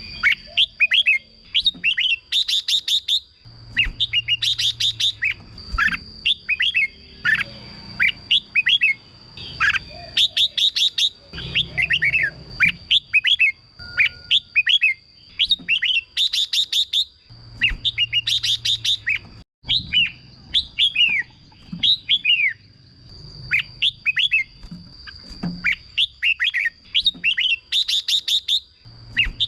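Red-whiskered bulbul singing: quick bubbling phrases of sweeping whistled notes, repeated every second or two with short pauses and sharp rapid trills between them. A steady thin high whine runs underneath.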